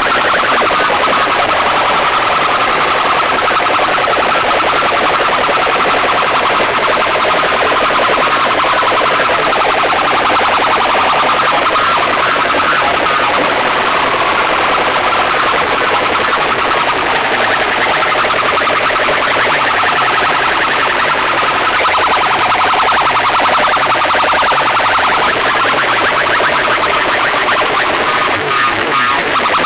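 Loud, distorted music blaring from large DJ sound-box speaker rigs in a sound competition, with shrill siren-like tones running through it.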